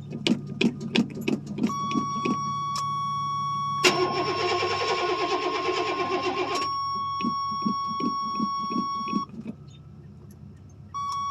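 A 1985 Chevrolet C10's 305 small-block V8 is cranked over by the starter on a weak, jumper-cabled battery. It turns over in rapid pulses for several seconds without catching. A steady high-pitched warning buzzer sounds through the cranking, after a series of sharp clicks at the start.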